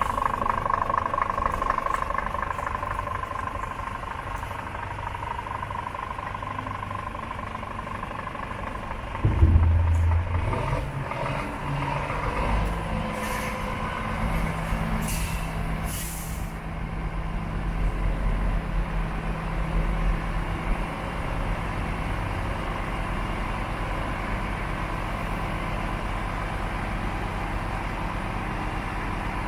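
Scania G410 tipper's 13-litre six-cylinder diesel starting about nine seconds in, after a steady tone, then settling to a steady idle. A few short hisses of compressed air come a few seconds after it fires.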